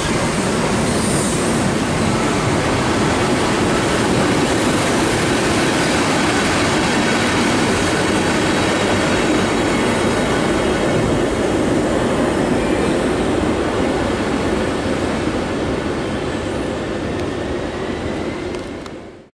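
Loco-hauled electric passenger train of Mark 3 coaches running out past the platform: a steady rumble of wheels on rail. It eases off a little near the end, then cuts off suddenly.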